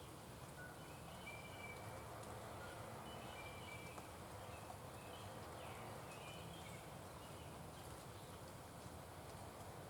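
Faint, short bird chirps, several in a row over the first two-thirds, over a steady outdoor background hiss.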